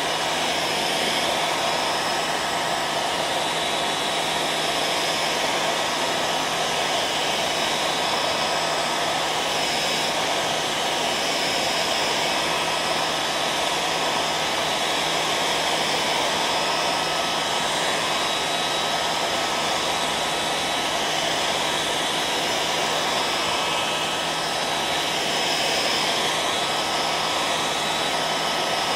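Hair dryer running steadily: an even rush of blown air over a low motor hum, with a thin high-pitched tone on top.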